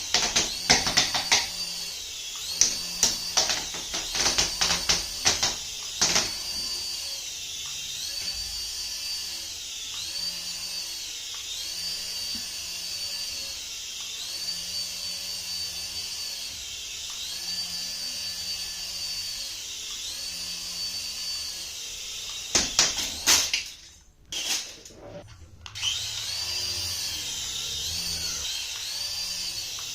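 A toy's small electric motor whining at high pitch, its pitch dipping and recovering about every two seconds. Bursts of clicks and knocks come in the first few seconds and again near the end.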